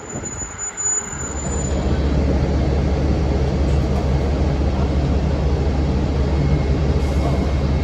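Engine cooling fan and Cummins ISM diesel of a 2006 NABI 40-foot low-floor bus: a loud, low, steady drone that swells up about a second in and then holds.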